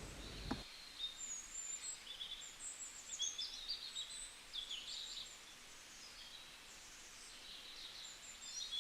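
Birds chirping and twittering, many short high calls overlapping at first, thinning out in the middle and picking up again near the end, with a soft knock just after the start.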